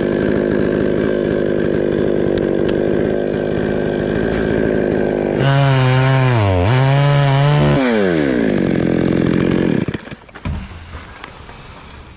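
Two-stroke chainsaw cutting wood under load, then revving up to a higher pitch about five seconds in, dipping once, and winding down until it drops away near the end.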